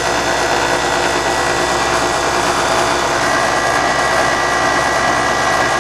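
York heat pump's outdoor unit running: compressor and condenser fan giving a steady whir with a faint high tone. It is running normally, the condenser fan motor drawing its rated current, a sign its bearings are not going out.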